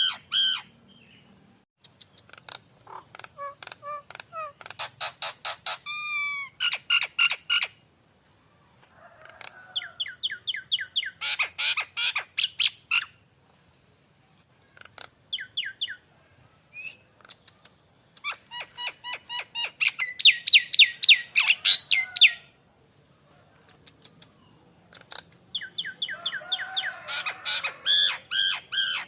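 Nias hill myna calling in about five bouts of rapid, repeated sharp notes, each bout a few seconds long with short pauses between.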